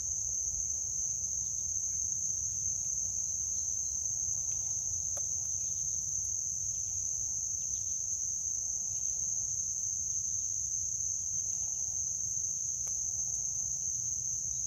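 Crickets chirring in a continuous high-pitched trill that holds steady throughout, over a low rumble, with a couple of faint clicks.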